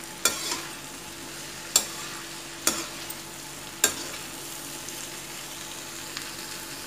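Sliced snake gourd and potatoes sizzling steadily in a metal kadhai over a raised gas flame, as a spatula stirs them and knocks sharply against the pan four times in the first four seconds; after that only the sizzle goes on.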